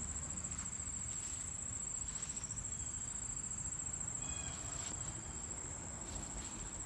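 Insects trilling steadily at a high pitch, a late-summer insect chorus, over a low rumble.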